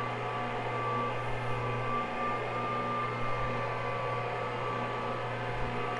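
Floor-cleaning machine's electric motor running steadily as it turns a green-stripe Astroturf pad over a wool rug, a constant low hum with a few high steady tones.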